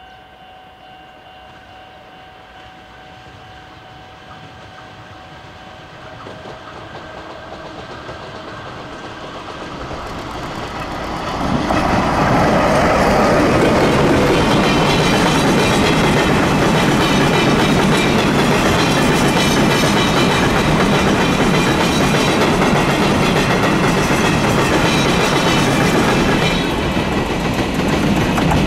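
A train passing by: faint at first and growing over about ten seconds, then loud and steady as the cars run past on the rails.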